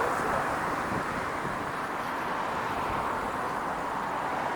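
Freight train rolling past, its wheels on the rails making a steady rushing noise with no horn or clanks standing out.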